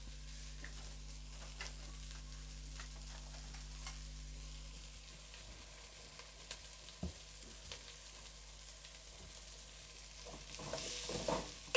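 Sliced onion, garlic and ginger sizzling gently in butter in a metal pot, with scattered small ticks and pops; the sizzle grows louder near the end as a wooden spatula stirs. This is the light sautéing (bhunna) of the aromatics before the tomatoes go in.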